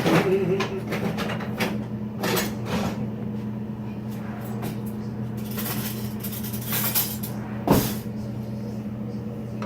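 Scattered knocks and clatter of kitchen utensils and cookware over a steady low hum, with one sharp knock about three-quarters of the way through.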